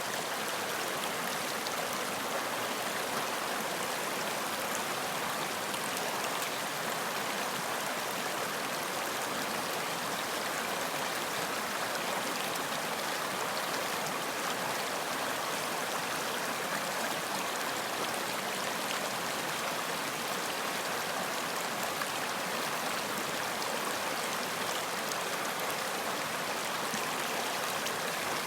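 Running water of a stream, a steady even rush with fine splashing.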